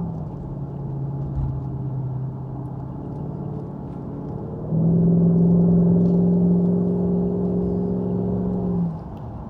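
Jaguar XK8 V8 engine and sports exhaust heard from inside the cabin under gentle acceleration, over road noise. The note drops in pitch at the start. About five seconds in it steps up, louder and higher, and holds steady, then drops back again near the end.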